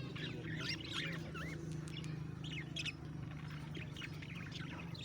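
Aviary parrots chirping: many short, overlapping high calls, over a steady low hum.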